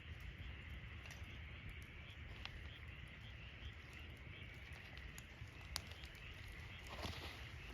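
Wood campfire crackling, with scattered sharp pops, the loudest about six seconds in, over a steady, faintly pulsing high background.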